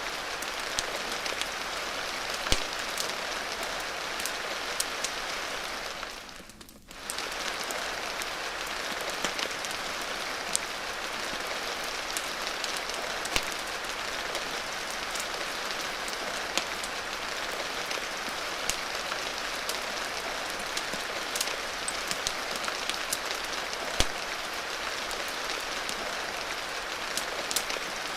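Steady rain with scattered sharp pops and crackles, the sound of a wood fire mixed in. The whole sound briefly fades out and back in about six to seven seconds in.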